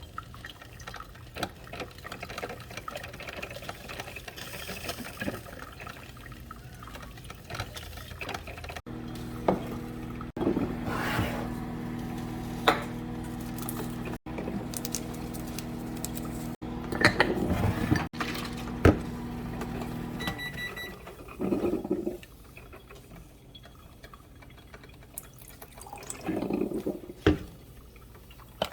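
Coffee machine pump humming steadily for about eleven seconds as coffee fills a cup, with liquid and handling sounds before it. The hum stops with a few short electronic beeps, followed by light clinks and handling.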